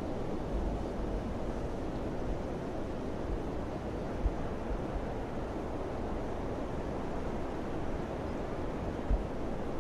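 Summer wind blowing steadily with a low rush, with two brief low thumps of gusts buffeting the microphone, about four and nine seconds in.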